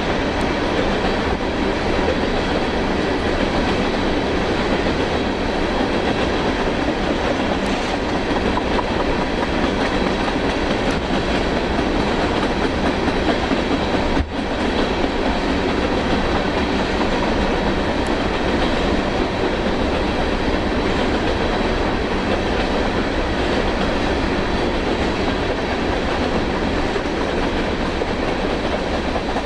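Train rolling past on the rails, a steady, loud noise of wheels and cars, with a brief break about halfway through.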